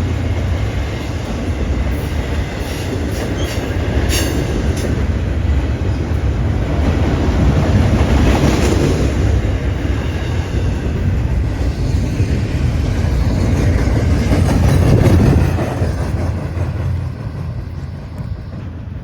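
Cars of a Norfolk Southern intermodal freight train rolling past: a steady rumble with wheels clattering and clicking over the rail joints. It swells twice, then grows quieter near the end.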